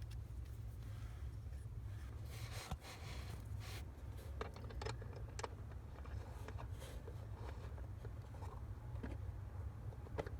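Scattered light clicks and scrapes of small parts being handled, over a steady low hum.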